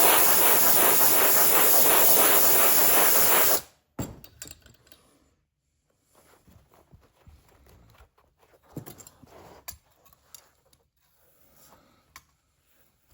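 A loud steady hiss of rushing air or spray that cuts off suddenly about three and a half seconds in, followed by faint handling and rubbing sounds.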